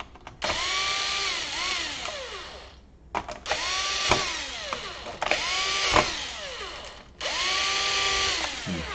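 Small electric screwdriver driving screws into a laptop casing in four short runs. Each run whines up in pitch, holds, then winds down, with a sharp click during the second and third runs.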